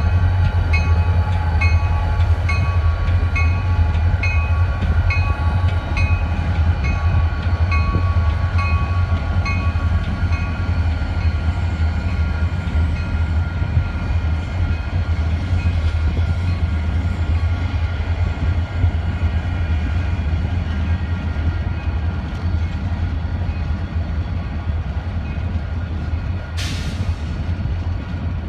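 A train rolling past with a heavy, steady low rumble. A repeating high ringing, just under twice a second, fades out about ten seconds in. A brief sharp hiss comes near the end.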